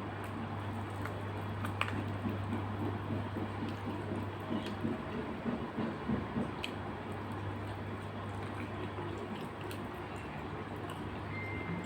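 A person chewing and eating, with wet squishy mouth sounds and a few light clicks scattered through, over a steady low hum.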